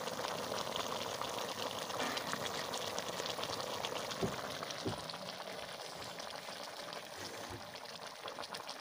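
Chicken curry sizzling and bubbling hard in a black iron kadai over a wood fire: a steady, dense crackle that eases slightly toward the end. Two soft knocks come about four and five seconds in.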